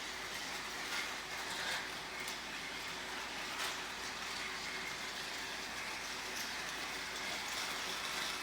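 Battery-powered Thomas & Friends TrackMaster toy engines running on plastic track: a steady faint motor whir with scattered light clicks.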